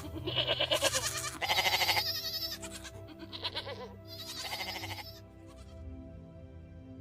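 Goats bleating, four or so quavering calls one after another, over soft background music; the calls stop about five seconds in.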